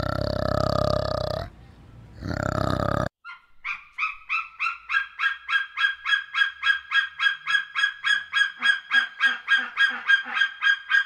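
A large animal gives a low, drawn-out grunting call, then a shorter one. After a sudden cut, a bird honks in a fast, even series of about four calls a second that keeps going to the end.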